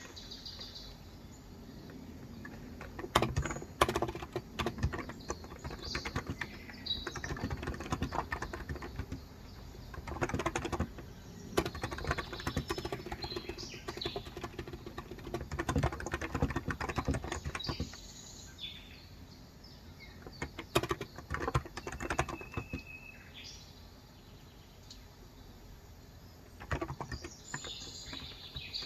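Typing on a Cox Endeavor electro-capacitive (non-contact) keyboard with 35 g switches: runs of keystrokes in several bursts with short pauses between them. Birds chirp briefly in the background near the start, in the middle and near the end.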